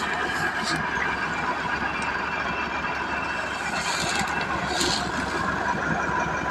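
Massey Ferguson 385 tractor's diesel engine running steadily, with a couple of brief high-pitched hissy squeals about four and five seconds in.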